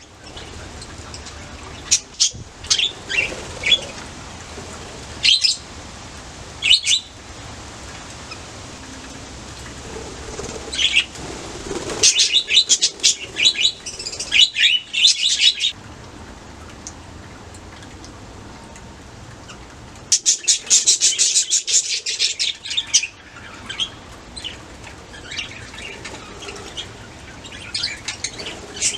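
Budgerigars chirping in short scattered bursts, with two longer flurries of rapid chirps, one about twelve seconds in and another about twenty seconds in.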